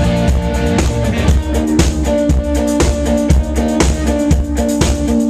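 Live pop-rock band playing an instrumental passage: guitar chords over a drum kit keeping a steady beat, with no vocals.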